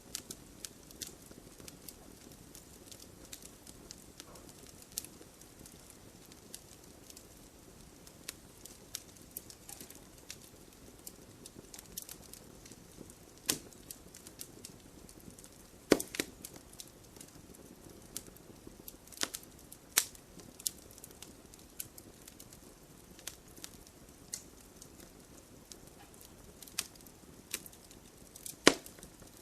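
Wood fire crackling: irregular sharp pops and snaps, a few much louder than the rest, over a low steady rush of burning.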